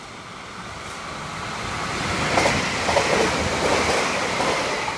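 A local electric multiple-unit train passing close by: a rushing noise of wheels and air that swells to its loudest about halfway through, with a few faint knocks, then begins to fade.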